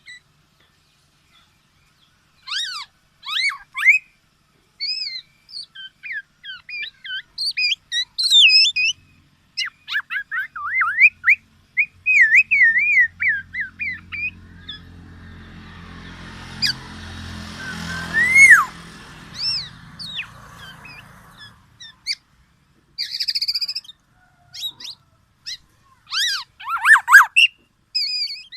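Black-naped oriole (kepodang) calling: a run of short fluty whistles, warbles and chirps rising and falling in pitch, with pauses between phrases. About halfway through, a low hum and hiss swells and then fades.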